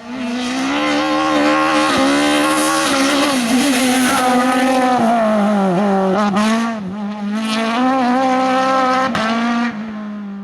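Race car engine at high revs under hard driving, its pitch climbing and dropping several times through gear changes and lifts, with a few short sharp cracks along the way.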